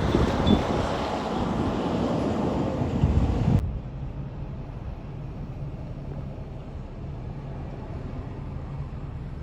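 Vehicle running outdoors with wind buffeting the microphone and a few knocks. About three and a half seconds in, it cuts abruptly to a quieter, steady low engine hum.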